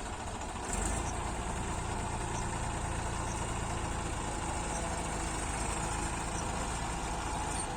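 Tractor diesel engine running steadily at low revs. It picks up slightly about a second in, then holds an even note.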